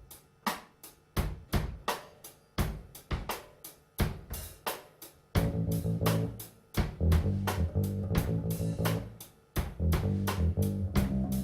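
Live rock band starting a song: the drum kit plays a steady beat alone, about two strikes a second, and bass guitar and guitar come in about five seconds in.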